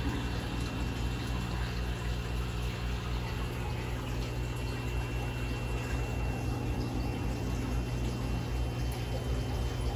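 Aquarium filter pump running steadily with a low hum, water circulating and splashing in the tank.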